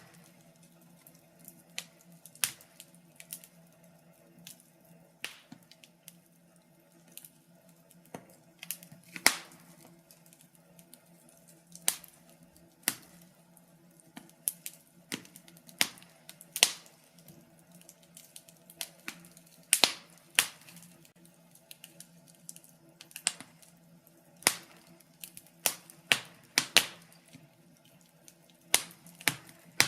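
Wood fire in a fireplace crackling, with irregular sharp pops and snaps, one or two a second and sometimes in quick clusters, over a faint steady low hum.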